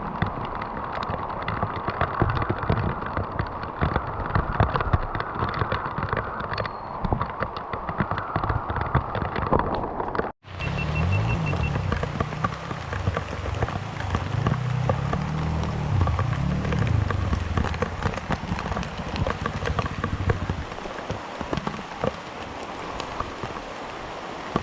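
Steady rain falling, with a trail motorcycle engine under it. The sound cuts out for an instant about ten seconds in. After that the engine revs up and down several times over the next ten seconds.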